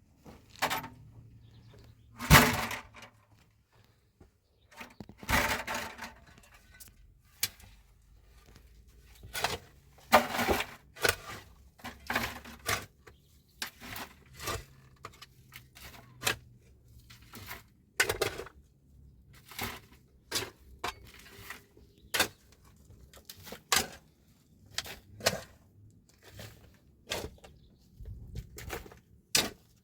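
A string of irregular knocks and cracks, about one a second, with the loudest sharp crack about two seconds in and a longer crackling stretch a few seconds later.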